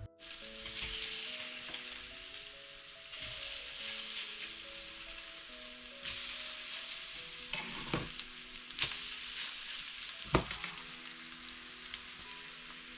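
Zucchini fritters frying in oil in a pan, a steady sizzle, with three sharp clicks near the end.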